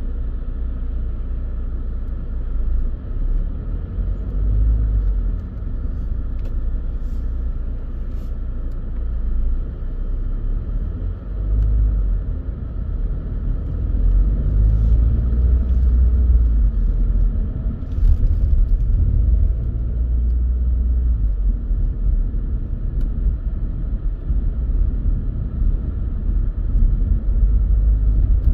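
Car driving along at speed: a steady low rumble of engine and tyre noise that swells and eases, with a few faint clicks.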